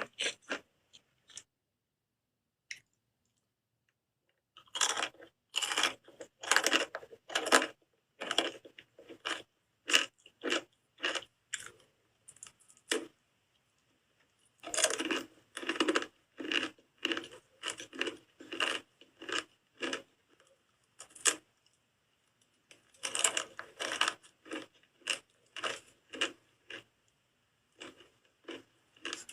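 Someone chewing and crunching on a hard bar of soap in runs of quick crisp bites, with short pauses between the runs.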